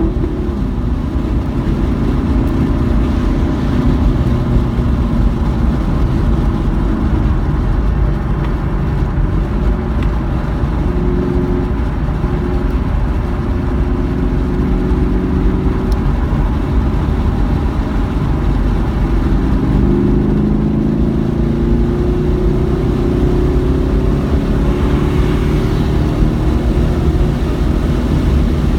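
Car engine under hard driving on a race track, its pitch rising and falling with throttle and gear changes: it drops near the start and climbs again in several pulls later on, over a steady rush of road and wind noise.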